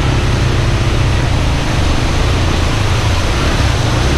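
Hero Xpulse 200's single-cylinder engine running at low revs as the bike moves slowly through a shallow stream, mixed with the steady rush of a waterfall and running water.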